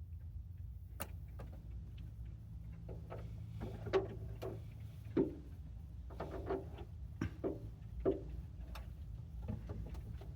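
Birds tapping and pecking at food on a car's roof and windows: irregular sharp taps and clicks, a few louder ones, over a low steady hum.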